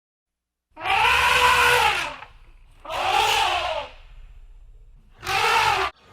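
An animal calling three times, each call a pitched cry that rises and then falls; the third is short and cut off suddenly.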